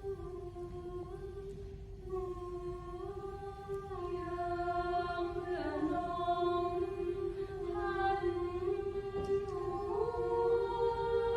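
Voices singing long held notes in harmony without accompaniment, stepping slowly from pitch to pitch; the singing gets louder about four seconds in.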